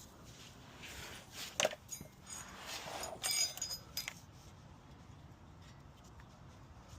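Light metallic clinks and rattles of hand tools and steel hardware being handled, a few sharp ones ringing briefly, dying away after about four seconds.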